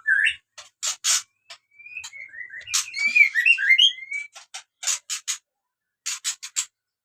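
Caged birds calling: short rising whistled notes and sharp high chirps come in quick clusters with brief pauses between them.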